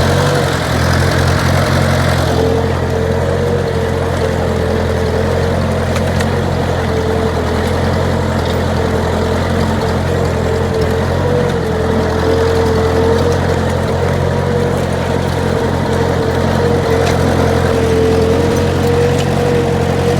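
Ford 860 tractor's four-cylinder engine running steadily under load while pulling plows, with a steady higher whine above the low engine note.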